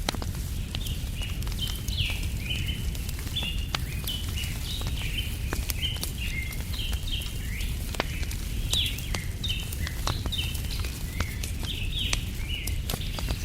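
Wood fire crackling with scattered sharp snaps over a steady low rumble, while small birds chirp continuously in quick, short notes.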